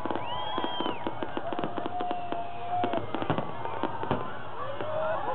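Fireworks display: a rapid, continuous run of sharp bangs and crackles from bursting aerial shells, with a couple of held whistling tones over it near the start.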